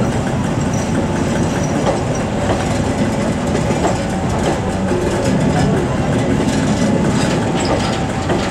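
Passenger train coaches passing close by, a loud, steady noise of wheels running on the rails.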